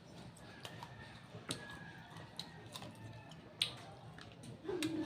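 Someone chewing crunchy raw vegetables close to the microphone: scattered sharp crunches and wet mouth clicks, the loudest about a second and a half and three and a half seconds in, with a brief low hum near the end.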